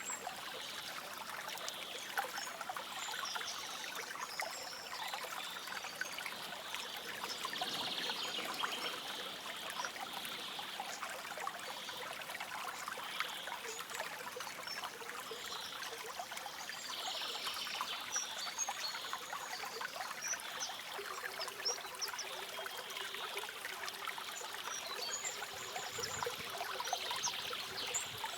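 Stream water trickling and splashing steadily, with scattered brief high bird chirps.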